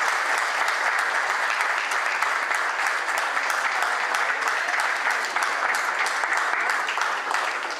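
Audience applauding, with many hands clapping in a steady, dense patter that begins to fade near the end.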